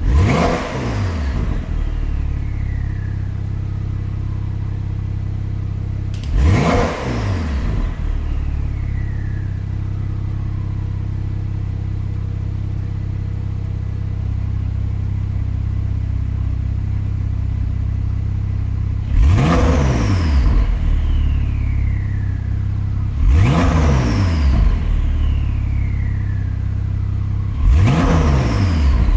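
2024 Porsche 911 Carrera 4S (992) twin-turbo flat-six idling and blipped five times, each rev climbing sharply and dropping straight back to idle. It breathes through Fabspeed headers and high-flow catalytic converters into the factory Porsche Sport Exhaust, whose valves are run by a KIES controller.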